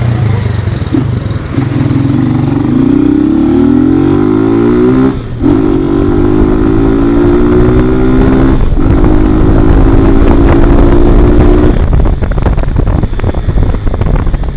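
Motorcycle engine accelerating hard through the gears: its pitch climbs, breaks briefly for two upshifts, and climbs again each time. About twelve seconds in the throttle closes and the engine note drops away, leaving rough wind noise.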